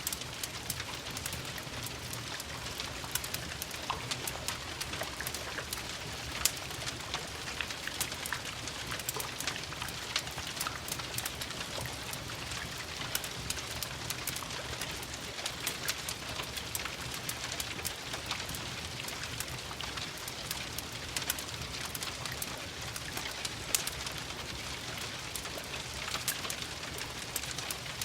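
Steady rain, mixed with a wood fire crackling: frequent sharp pops scattered through an even patter.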